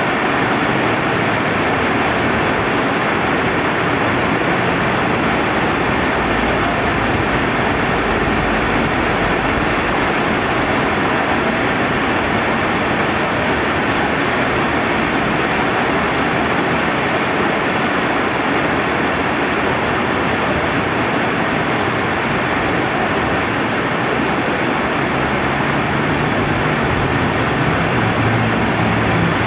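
Steady rain falling beside a flowing river, a dense, even hiss without a break.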